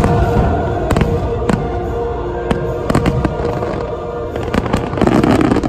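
Aerial fireworks shells bursting, sharp reports spaced roughly half a second to a second apart, with a dense flurry of bursts about five seconds in. Show music with held tones plays underneath.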